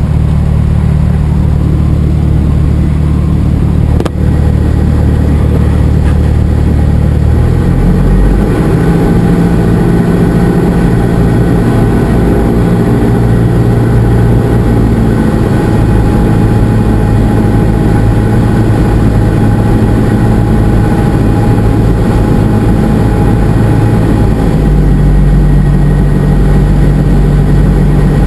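Cessna 172SP's single piston engine and propeller running steadily, heard loud from inside the cockpit. The engine note changes about seven seconds in and again near the end, as with a power change. A short click comes about four seconds in.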